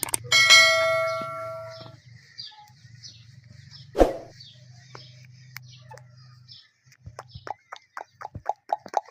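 Indian ringneck parrot calling: small chirps repeated throughout, then a fast run of short sharp calls in the last two seconds. A ringing tone fades out over about a second and a half near the start, and there is a single thump about four seconds in.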